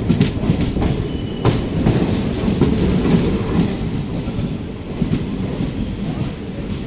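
Passenger train running along the line: a steady low rumble from the wheels and coaches, with a few scattered knocks.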